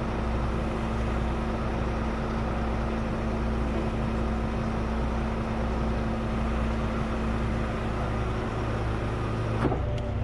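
Heavy truck's diesel engine idling steadily. Near the end there is a short click and the engine's pitch shifts.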